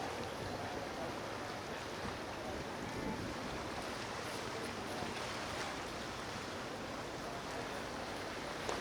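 Steady rushing noise of water and wind with no distinct events, and a brief click near the end.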